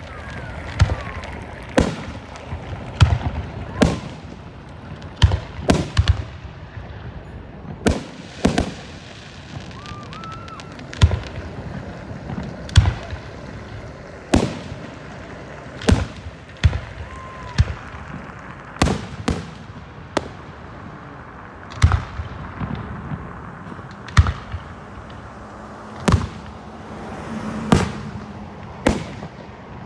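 Aerial firework shells bursting overhead: a run of sharp booms at irregular spacing, roughly one a second, over a steady hiss and crackle.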